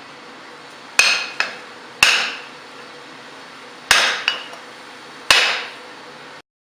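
Hand hammer striking steel on an anvil: four heavy ringing blows, two of them followed by a lighter tap. The sound cuts off suddenly near the end.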